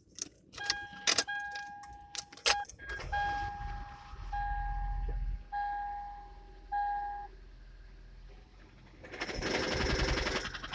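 Keys jangling and clicking, then a run of electronic beeps from the 2002 Toyota Prius dashboard. About nine seconds in, the Prius's 1.5-litre four-cylinder petrol engine starts up and runs rough, with the misfiring idle the owner is trying to diagnose.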